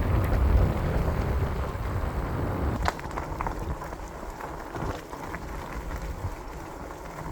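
E-bike ride on a trail: wind buffeting the microphone over the rolling rumble of the tyres, with a few sharp rattles and clicks about three seconds in.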